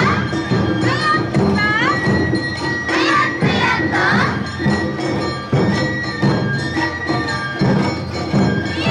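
Live Awa odori music from a narimono band: drums beating steadily under a high bell and flute line, with voices calling out over it in the first half.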